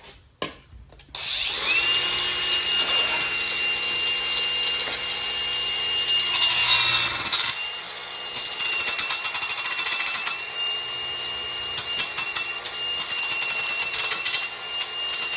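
Electric power tool running with a steady high whine, starting about a second in. It drops away briefly about halfway, then runs again with a fast clicking rattle.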